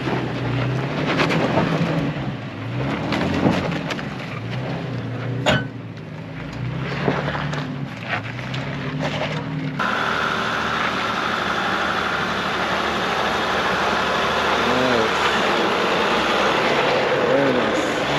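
Pickup truck engine revving up and down as it crawls over a rocky trail obstacle, with scattered knocks and crunches of tyres on rock. About ten seconds in, the sound changes abruptly to a steadier engine noise.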